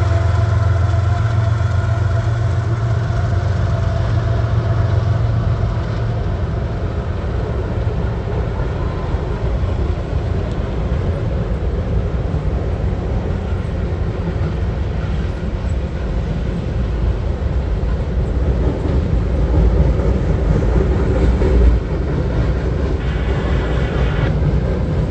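Freight train passing with a steady rumble of wheels on rail. A diesel locomotive engine hum is strong in the first few seconds, then fades, leaving the even rolling of the railcars.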